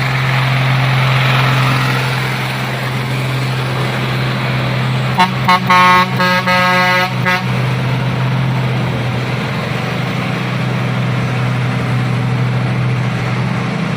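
Isuzu truck's diesel engine running steadily under load. About five seconds in, a vehicle horn sounds in several short toots over about two seconds.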